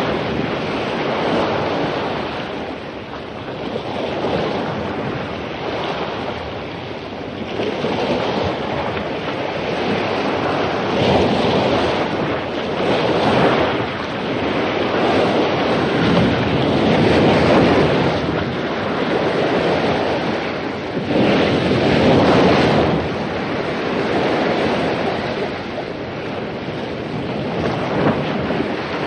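Surf breaking on a beach, a continuous rushing roar that swells and ebbs as each wave comes in, with wind buffeting the microphone.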